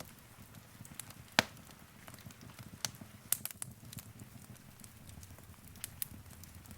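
Wood fire crackling in a fireplace: irregular sharp pops and snaps over a low, steady flame noise. The loudest pop comes about a second and a half in.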